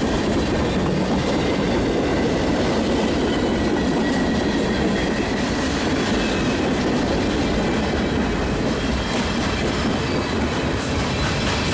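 A freight train's cars rolling steadily past on the rails, with the clatter of wheels over the track joints.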